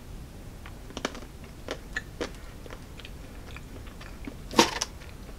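A person biting into and chewing a small espresso chocolate with a soft coffee-caramel centre, giving scattered soft mouth clicks. A louder mouth sound comes about four and a half seconds in.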